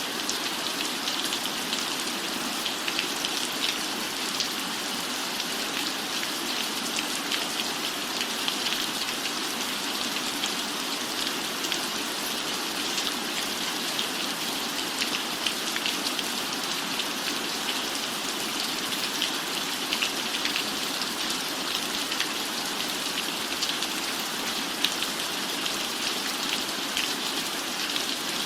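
Steady rain falling: an even hiss threaded with many small drop ticks, unchanging throughout.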